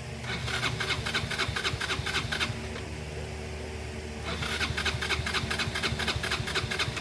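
Yamaha Vino 125 scooter's electric starter motor cranking its single-cylinder engine over in two bursts of a couple of seconds each, with rapid even pulsing, and the engine not catching. The starter itself works.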